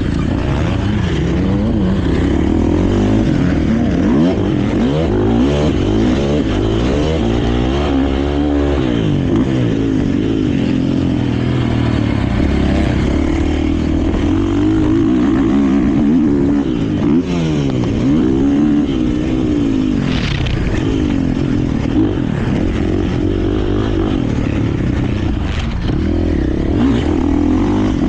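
KTM 450 four-stroke single-cylinder motocross bike being ridden hard. The engine revs up and drops back over and over with the throttle and gear changes.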